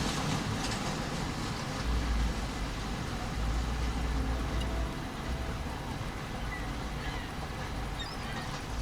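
Train rolling slowly, a steady low rumble with a noisy hiss over it.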